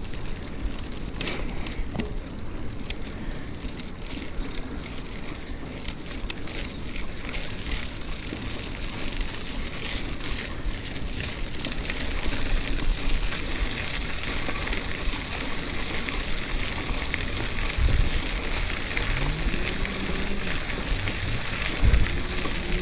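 Wind rushing over the microphone of a bike-mounted camera while riding, with scattered clicks and rattles. Near the end a pitched hum rises and then holds.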